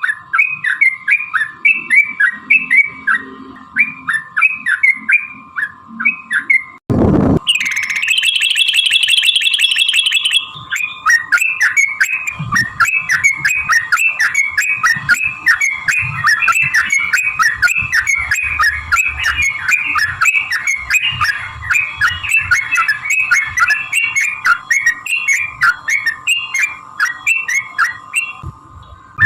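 Yellow-vented bulbuls (trucukan) singing in long, rapid bursts of chattering notes, over a steady faint tone. About seven seconds in there is a brief break and click, followed by a dense buzzy trill lasting about three seconds before the quick chatter resumes.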